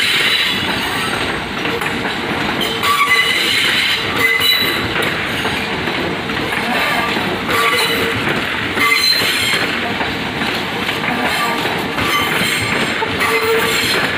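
A train running on rails: a steady rumble and clatter of wheels on track, with short high-pitched wheel squeals coming and going every second or two.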